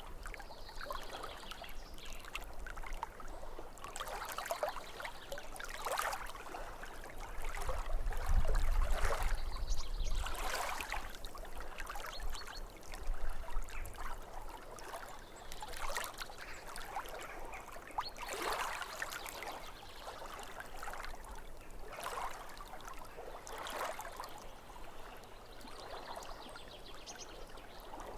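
Small waves lapping at a lakeshore, one soft wash every two seconds or so, with a few faint bird chirps. A low rumble swells about eight seconds in and fades by ten.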